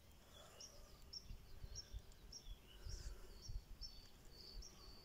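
A small songbird singing faintly: a steady run of short, high chirps, two or three a second, over a low rumble.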